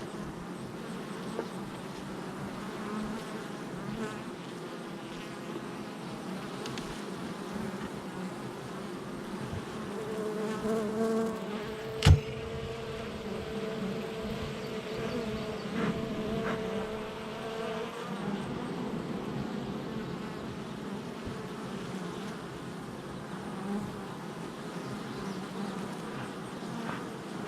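Honey bees buzzing at a hive entrance: a steady drone of many wingbeats. For several seconds midway, one louder, steady buzz stands out above the rest, and a single sharp tap sounds about twelve seconds in.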